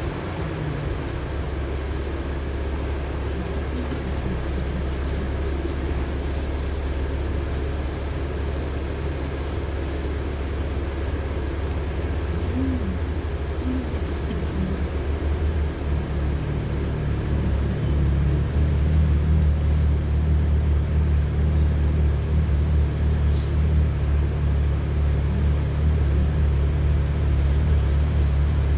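Interior of a LiAZ-6213.65 articulated city bus on the move: a steady low engine drone with road noise. About halfway through, the drone grows louder and deeper, with extra low tones joining, as the engine pulls harder.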